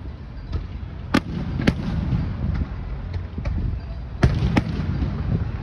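Aerial fireworks shells bursting: a string of sharp bangs, the loudest coming in two close pairs about a second in and about four seconds in, over a continuous low rumble.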